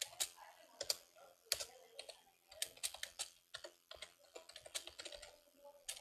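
A quick, irregular run of sharp clicks and taps, several a second, like keys being typed.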